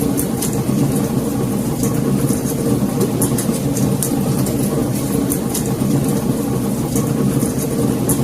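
Wood fire burning in a fireplace: a steady low roar with frequent sharp crackles and pops.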